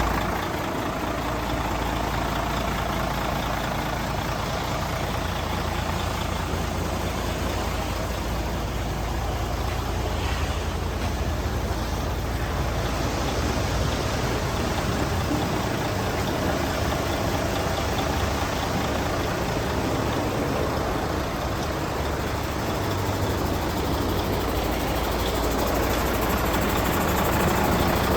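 Mercedes-Benz Actros 4140 truck's diesel engine idling steadily, getting a little louder over the last few seconds.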